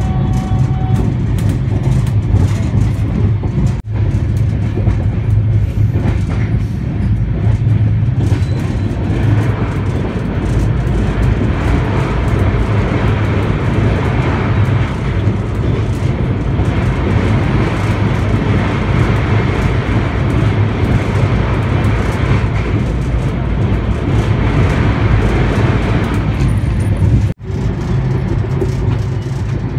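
Passenger train running at speed, heard from inside the coach: a steady rumble of wheels on rails. The sound cuts off briefly twice, about four seconds in and near the end.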